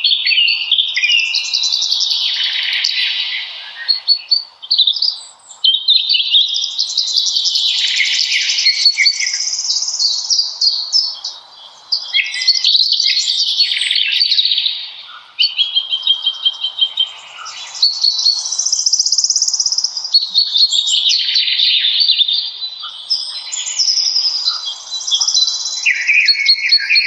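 Songbirds singing in spring woodland: long, busy, overlapping phrases of chirps and trills, one after another with short pauses, over a faint steady background hiss.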